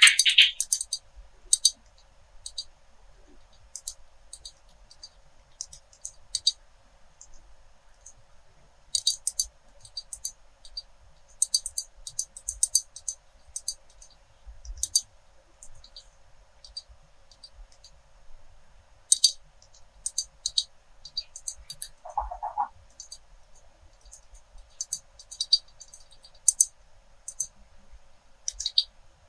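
ASMR tapping on glass and pens: quick clusters of light, sharp clicks and taps with short pauses between them, and one brief duller sound about 22 seconds in.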